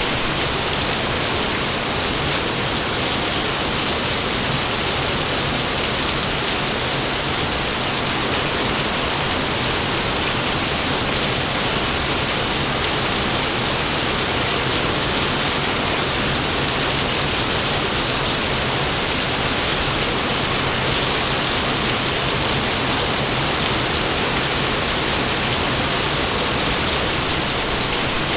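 Heavy rain pouring down in a dense, steady hiss, with no thunder in this stretch.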